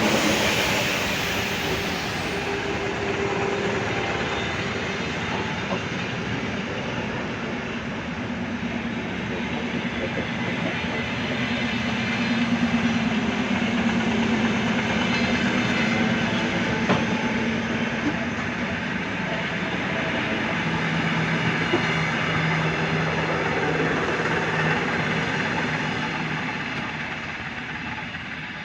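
ED2T electric multiple unit running on the rails, its wheels clacking over the track with a steady low hum, fading away near the end.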